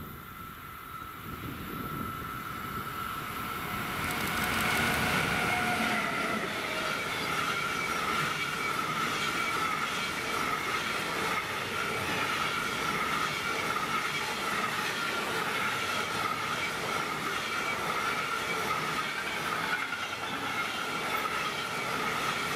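Empty timber freight train passing close, hauled by a Siemens Vectron class 193 electric locomotive: the locomotive comes up and goes by about four seconds in, then the empty log wagons roll past steadily. A steady high-pitched tone runs over the rolling noise.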